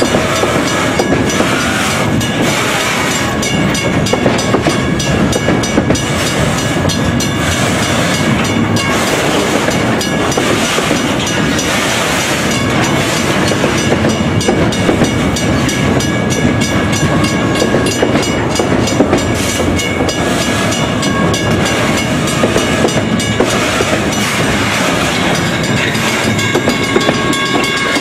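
Freight train wagons rolling past: a steady, loud rumble of wheels on track with continual rapid clatter over the rail joints.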